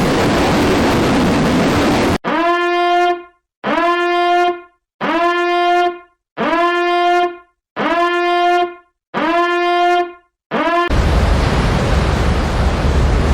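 A horn sounding six long blasts at one steady pitch, evenly spaced about a second and a half apart, between stretches of steady rushing noise at the start and end.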